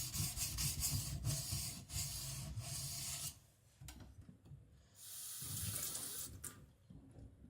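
A steel kiridashi blade being ground back and forth on a wet, coarse 220-grit Shapton whetstone, with a steady rasping rub that stops about three seconds in. After a faint click, a short hiss of noise follows around five seconds in.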